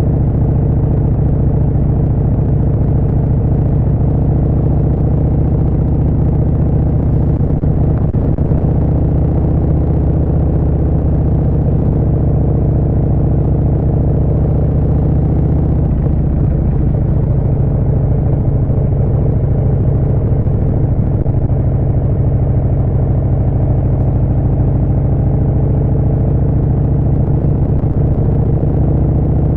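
Harley-Davidson Street Bob 114's Milwaukee-Eight 114 V-twin running steadily under way through a Vance & Hines Short Shots full exhaust, with the engine note shifting a little about halfway through.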